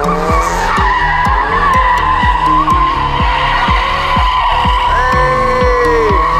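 Car tyres squealing steadily in a donut, with the engine revving up and dropping back near the end. Bass-heavy music with a thumping beat about twice a second plays underneath.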